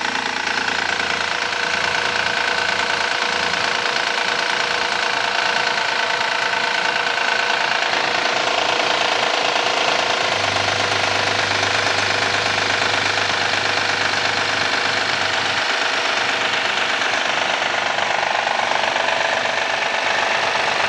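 2014 Honda Accord V6 engine running cold with a noisy knocking rattle, which the mechanic suspects comes from the timing belt tensioner.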